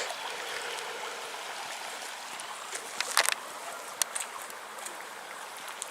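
Shallow river flowing with a steady rushing burble, broken by a few short clicks about halfway through.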